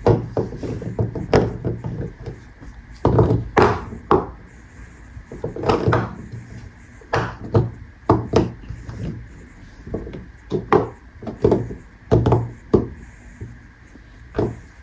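Soap bars being unpacked and unwrapped by hand: irregular taps and knocks with rustling of the packaging in between.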